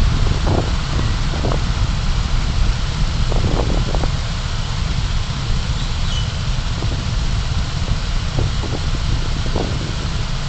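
Car driving, recorded on a dashcam: a steady low rumble of road and engine noise, with a few brief knocks now and then.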